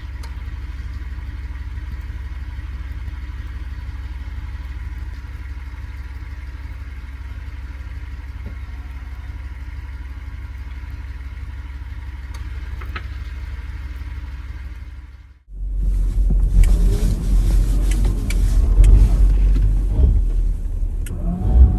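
Jeep Wrangler running on the trail: a steady low engine drone, then after a sudden break about fifteen seconds in, much louder, rougher engine and driving noise.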